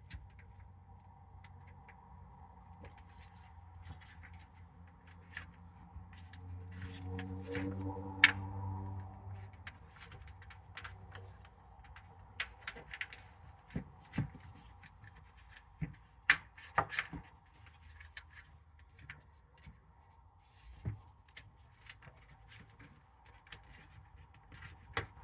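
Scattered small clicks, taps and rustles of hands working plastic parts and wiring back into an old caravan roof-hatch exhaust fan, over a faint steady hum. A low hum swells for a few seconds about a quarter of the way in.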